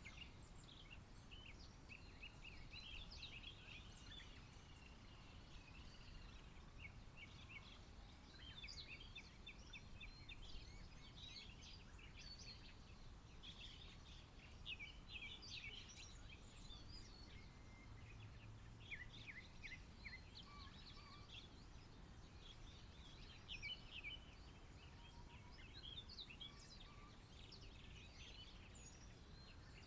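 Faint birdsong: several small birds chirping and trilling with overlapping calls, over a low background hum.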